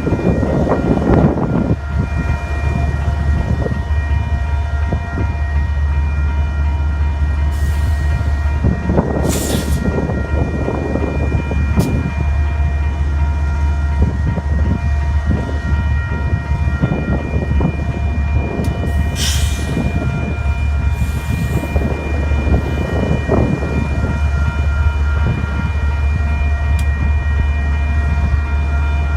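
GE Evolution Series (GEVO) diesel freight locomotives running, with a steady deep engine drone and a steady high whine held over it. Irregular rumbling from the train's wheels and cars comes and goes, with a couple of brief hisses about 10 and 19 seconds in.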